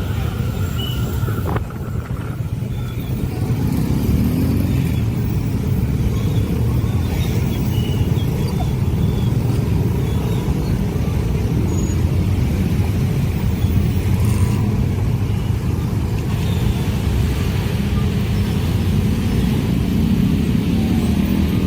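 A long train passing, a steady low rumble that grows louder about four seconds in and holds.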